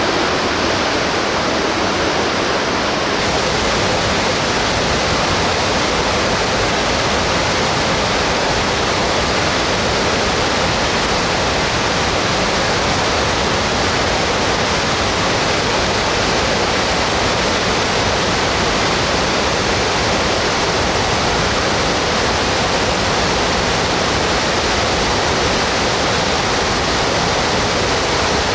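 Rain-swollen mountain stream rushing steadily over rocks, the water running high after days of heavy rain.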